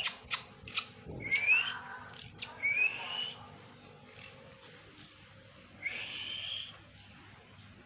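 Young oriental magpie-robins (kacer) calling: a string of high chirps, sharp falling notes and rising whistled calls, in the first three seconds or so. Fainter short calls follow, with one longer rising call about six seconds in.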